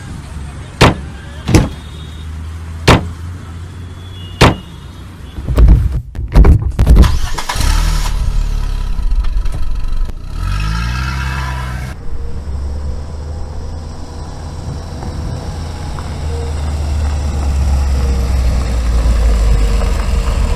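A car: a few sharp clicks and a cluster of loud knocks, then an engine starting with a rising whine and settling into a steady low running drone that slowly grows louder.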